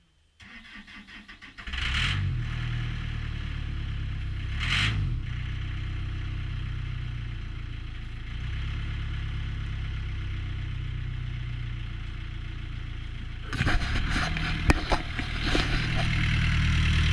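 Takeuchi TB180FR excavator's diesel engine cranked by the starter and catching after about a second, then running with two brief surges. Near the end a cluster of sharp knocks and rattles, after which the engine runs louder. The engine is hard to start and its fuel injection pump seems to starve it of fuel.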